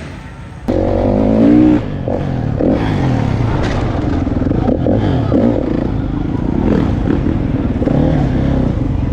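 Motorcycle engine coming in suddenly about a second in and revving, its pitch rising and falling, then running on unevenly with smaller blips of throttle.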